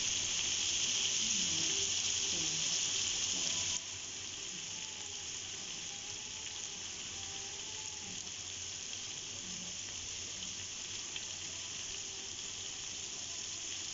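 Potatoes and tomatoes frying in oil in a large pot, giving a steady sizzle. The sizzle drops suddenly to a lower level about four seconds in and goes on more quietly.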